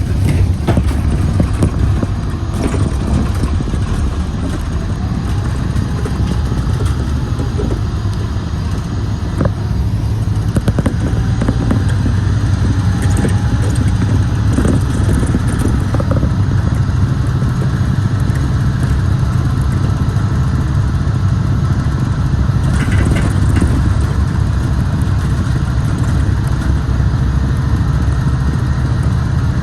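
Scania Citywide city bus's compressed-natural-gas engine running, with a changing note in the first ten seconds, then a steady note from about ten seconds in.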